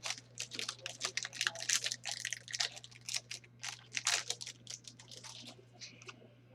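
A quick, irregular run of light clicks and taps, dense for about five seconds and then thinning out near the end.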